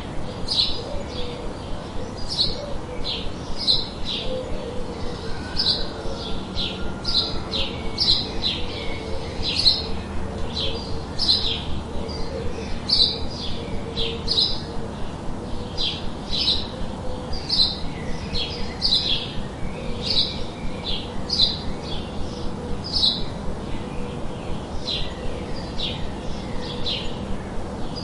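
A bird chirping over and over in short high notes, about three every two seconds, over a steady hiss of white noise.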